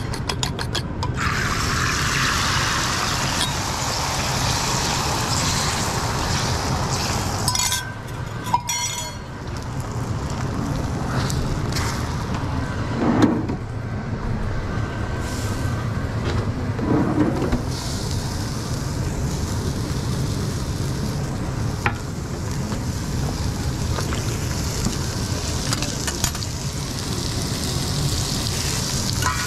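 Omelette frying on a hot griddle, a steady sizzle over a low rumble, with the hissing swelling near the start and again in the last third. A few sharp knocks and clinks come about eight seconds in, with single clicks later.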